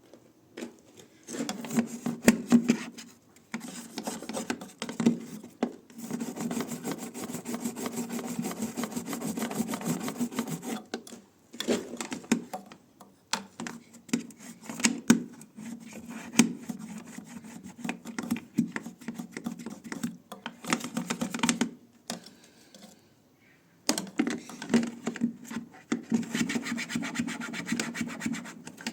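Rapid back-and-forth scrubbing strokes, in spells of a few seconds separated by short pauses.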